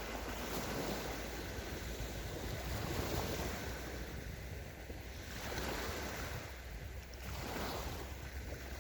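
Sea waves washing onto a sandy beach, the wash swelling and easing every couple of seconds. A steady low wind rumble sits on the microphone underneath.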